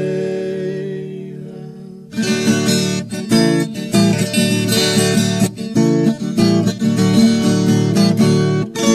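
Instrumental music break: a held chord fades away, then acoustic guitar strumming starts about two seconds in and carries on in a steady, lively rhythm.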